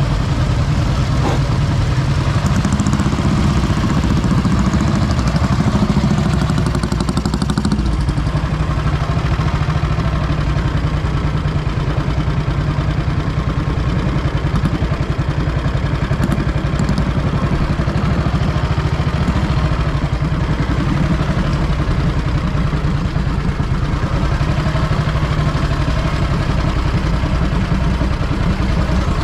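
Vintage motorcycle engine running steadily at a low idle, with a continuous rapid pulsing.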